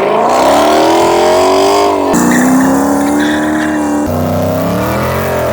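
Car engines revving, a loud engine note rising and falling in pitch, in three short segments that cut abruptly from one to the next about two and four seconds in.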